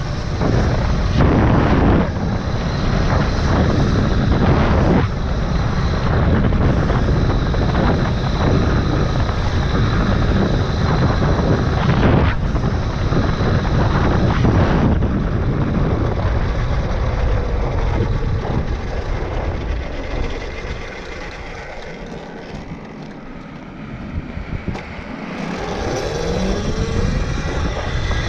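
Wind buffeting the microphone and tyre and drivetrain noise while riding a Tuttio Soleil 1 electric dirt bike. It eases off about three-quarters of the way through, then a rising whine comes in near the end as the bike picks up speed again.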